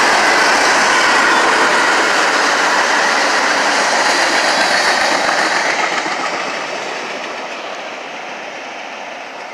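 NS passenger train passing close by, its running noise steady and loud at first, then fading away over the last few seconds as it moves off.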